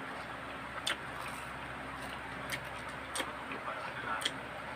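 Mouth sounds of eating a ripe, peeled Indian mango: a few short wet smacking clicks, about four, over a steady background hiss.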